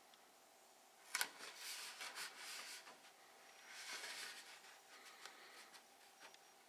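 Faint rubbing and scratchy rustling from handling a roll of double-sided poster tape being peeled for use: a sharp click about a second in, then two stretches of rasping handling noise.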